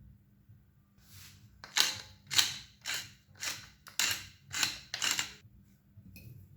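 A knife cutting through food in a run of seven crisp strokes, about two a second, that stop suddenly.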